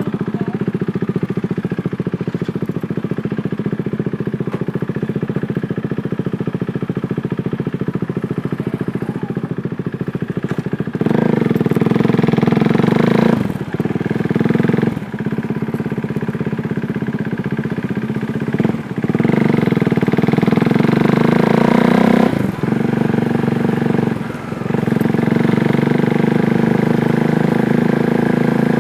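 KTM Duke 390's single-cylinder engine idling steadily, then pulling away about eleven seconds in. It revs up in repeated rising sweeps, each cut by a short dip as it shifts up through the gears.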